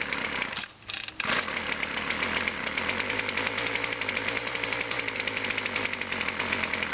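Two-stroke weed whacker engine firing on a cold start after choking and priming: it stumbles and nearly dies about half a second in, then catches and runs steadily with a fast even pulse.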